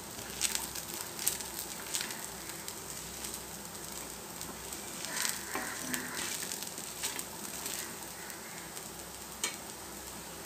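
Dosa batter frying in oil on a hot griddle, sizzling steadily, while a flat metal spatula scrapes and taps across it a few times, mostly in the first half and once near the end.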